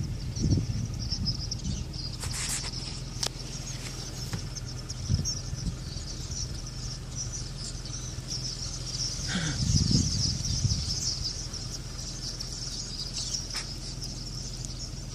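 A huge flock of birds calling all at once, a dense steady high-pitched chatter. A low steady hum runs underneath, with a few low rumbles near the start and about ten seconds in.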